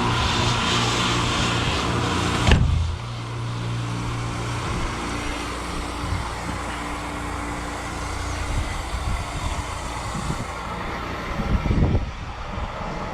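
A truck engine idling steadily with a loud hiss over it. A sharp bang comes about two and a half seconds in, like a door shutting, and after it the idle sounds duller and quieter.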